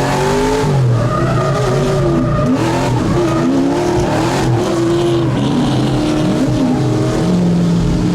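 Drift car's engine revving up and down repeatedly while the tyres squeal through a slide.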